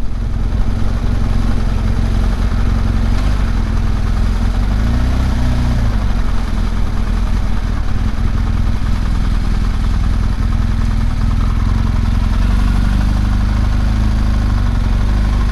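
BMW R1200GS Adventure's boxer twin engine idling steadily in stationary traffic, with one brief rise and fall in engine pitch about five seconds in.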